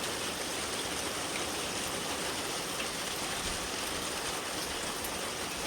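Steady rain falling in a thunderstorm, an even hiss.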